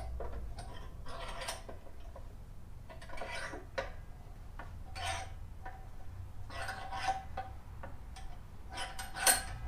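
Hand tool cranking the screw of a motorcycle lift jack to raise it: irregular metallic clicks and clanks every second or two.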